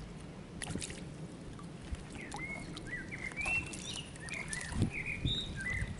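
Birds chirping in short rising and falling calls from about two seconds in, with a few sharp clicks early on and a dull knock about three-quarters of the way through.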